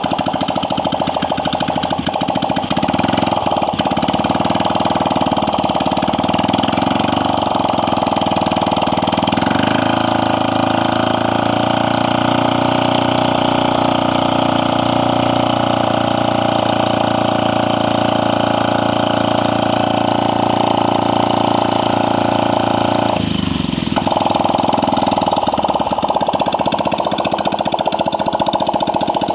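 Yamaha Aerox scooter's liquid-cooled single-cylinder engine running steadily, with a brief dip in the sound about two-thirds of the way through; the engine is running normally again, its radiator coolant stable.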